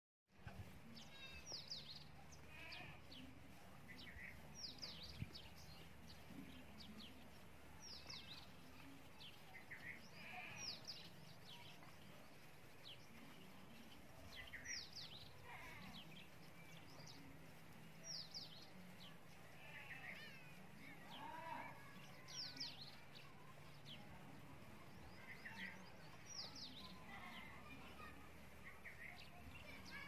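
Faint birdsong: short, high chirps sweeping downward, repeating every second or two over a low steady hum.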